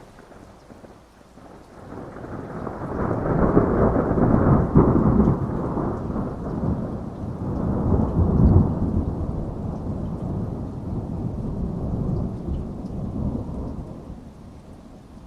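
A long roll of thunder over steady rain: the deep rumble swells up over a couple of seconds, peaks twice, then slowly dies away near the end.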